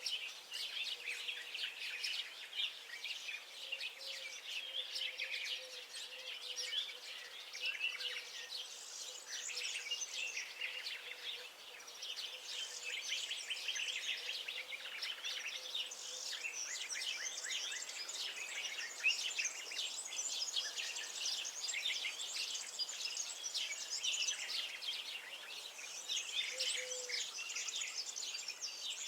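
Many songbirds chirping and singing at once: a dense, unbroken chorus of quick high notes.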